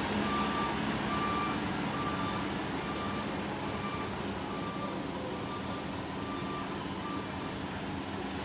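Electronic warning beeper sounding a single steady tone on and off, about once every three-quarters of a second, over a steady rumble. The beeping stops about seven seconds in.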